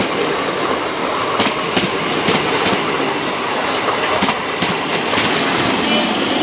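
Electric multiple unit (EMU) suburban local train passing close by at speed: a steady rush and rumble of wheels on rail, broken by repeated clacks as the wheels cross rail joints.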